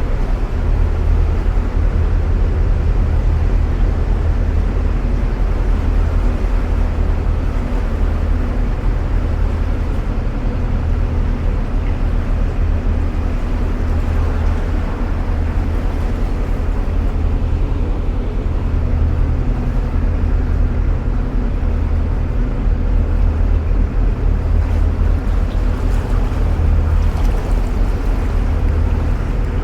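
Narrowboat's diesel engine running steadily under way, a deep, even low throb, heard inside a canal tunnel.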